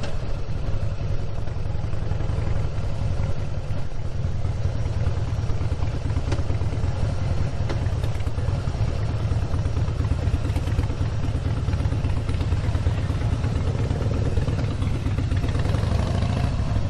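Harley-Davidson motorcycle's V-twin engine running steadily under way, a continuous low pulsing note.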